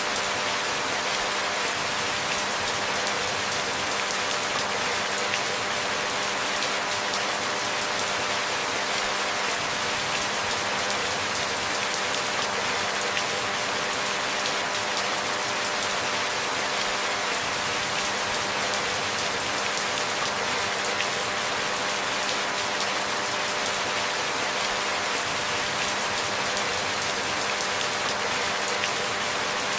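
Steady rain falling, an even hiss of many drops that keeps the same level throughout, with a few faint steady tones beneath it.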